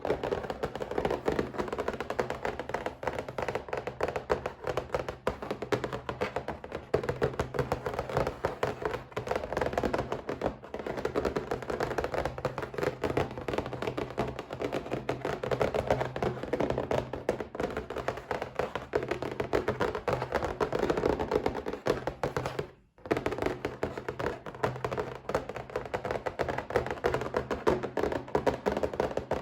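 Rapid, continuous tapping on a box, many taps a second, with a brief pause about twenty-three seconds in.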